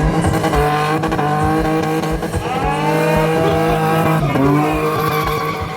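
A drifting car's engine revving hard in about three rising pulls, with tyres squealing as it slides.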